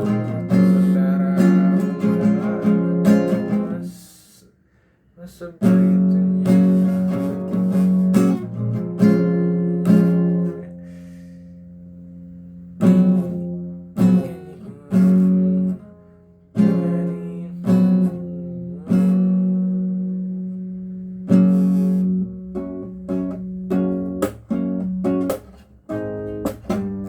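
Acoustic guitar capoed at the first fret, strumming chords, with a brief pause about four seconds in and several chords left ringing out to fade between strums.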